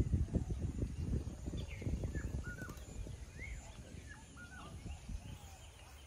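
Wild birds calling in short, repeated chirps, with a low gusty rumble of wind on the microphone that dies away over the first few seconds.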